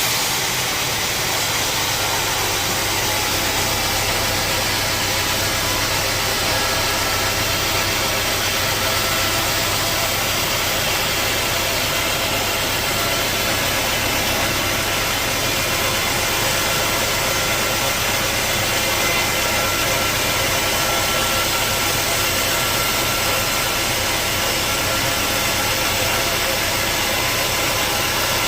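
Sawmill saw machinery running steadily: a constant low hum under a broad, even rushing noise that does not change.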